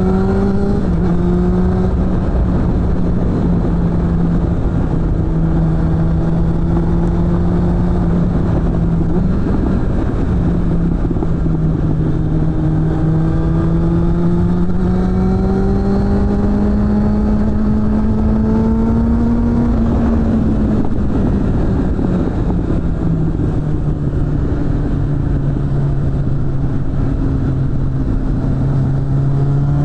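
Suzuki GSF600 Bandit's inline-four engine running through a BOS aftermarket exhaust while under way. Its pitch climbs slowly for most of the first twenty seconds, with short dips about a second in and again near nine seconds, then falls away and holds at a lower, steady pitch.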